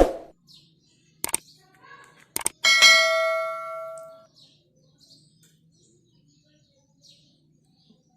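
Metal dishware knocked and clinking: a sharp knock, two light clicks, then one clang that rings and fades over about a second and a half. Birds chirp faintly behind.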